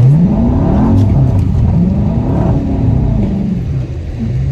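Car engine revving hard, its pitch rising and falling about twice, then settling to a steadier note near the end.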